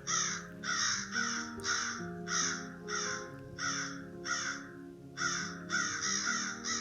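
A crow cawing in a long, evenly paced series of about a dozen harsh caws, roughly two a second, over soft background music.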